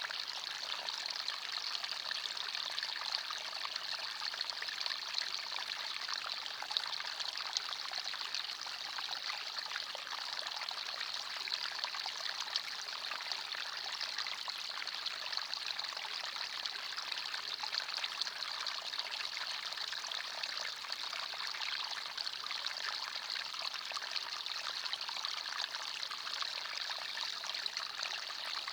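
Forest stream: water trickling and burbling steadily over stones, a bright, even splashing with no pauses.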